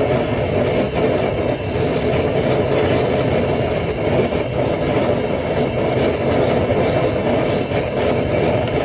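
Homemade propane burner firing into a DIY foundry furnace, a steady, unbroken roar. The furnace is on an early firing, running to dry moisture out of its lining.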